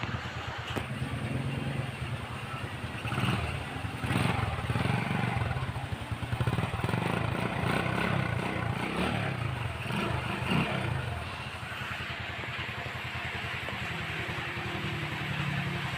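Rusi DLY125 motorcycle engine running, revved up and down several times before settling back to idle near the end. It now runs with the faulty ignition switch bypassed by a simple switch.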